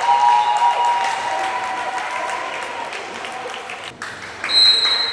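Spectators in a sports hall clapping and cheering, with raised voices, after a volleyball rally. About four and a half seconds in, a short, shrill whistle blast cuts in.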